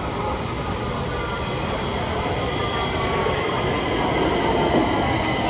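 Stockholm Metro train running on the rails: a steady rumble, with a thin high whine building up and growing stronger over the last few seconds.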